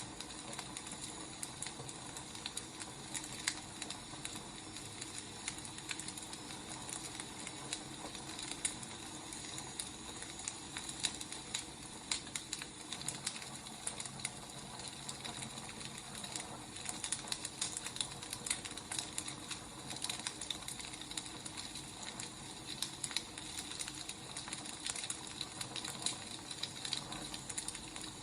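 Wood fire burning, crackling: irregular sharp pops and snaps of firewood over a steady hiss.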